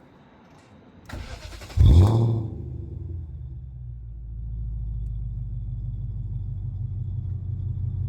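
BMW 540i's 4.4-litre V8 with a straight-piped exhaust being started. The starter cranks for under a second, then the engine catches with a loud flare about two seconds in and settles into a steady, deep idle.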